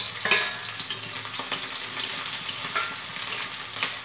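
Chopped onion and green chilli sizzling as they hit hot oil and garlic in a metal kadhai, with a metal spatula scraping and clinking against the pan as they are stirred.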